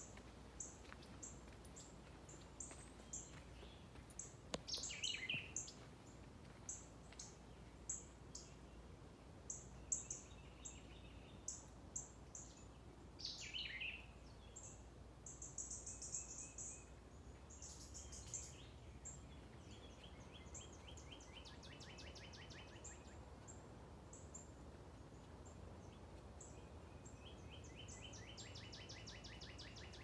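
Several songbirds calling in woodland: a scatter of short high chirps, two quick downward-sliding calls, and a fast trill heard twice in the second half, over faint background noise.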